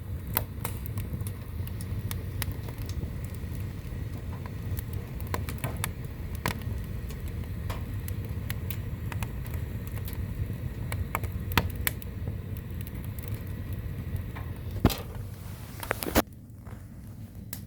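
Firewood burning, crackling with frequent sharp, irregular pops over a steady low rumble. Two louder pops come near the end, after which the low rumble drops away.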